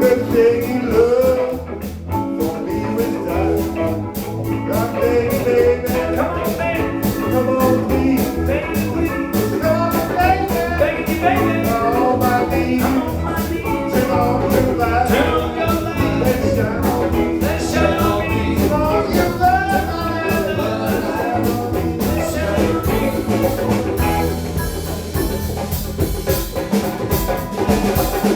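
Live rock band playing a blues-rock number: a voice singing over electric guitar, bass and drums.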